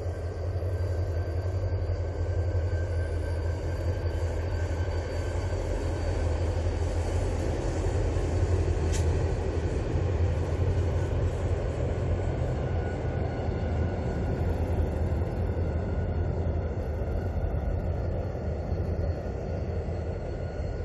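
Mugunghwa-ho passenger train, a locomotive hauling a rake of coaches, crossing an elevated steel-truss railway bridge: a steady low rumble of wheels on rail and bridge deck.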